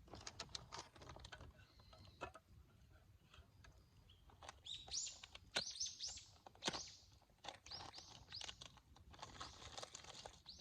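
A bird chirping, a handful of short high calls in the middle, over faint scattered clicks and taps.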